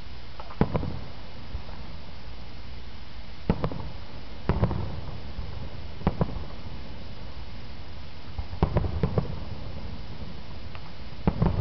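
Aerial firework shells bursting: sharp bangs, often in pairs or small clusters, every one to three seconds, over a steady background noise.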